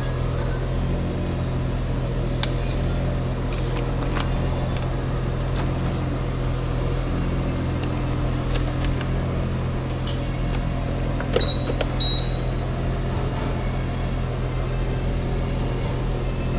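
BMW F800GS parallel-twin engine idling steadily at a standstill, a constant low hum. A short high double beep sounds about two-thirds of the way through.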